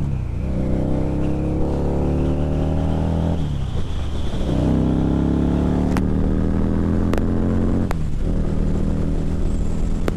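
Harley-Davidson V-Rod's liquid-cooled V-twin accelerating hard, its pitch climbing, dropping at an upshift about three and a half seconds in, climbing again and shifting once more about eight seconds in. Heard from inside the rider's helmet with wind noise over it.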